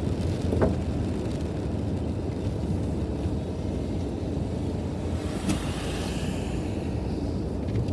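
Steady low vehicle rumble in the rain, with a short click under a second in and a brief hiss about five and a half seconds in that fades over the next second.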